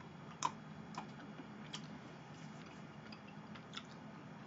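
Close-up mouth sounds of a woman eating a thin chocolate cake decoration: a few sharp, crisp clicks as it is bitten and chewed, the loudest about half a second in, over a faint steady low hum.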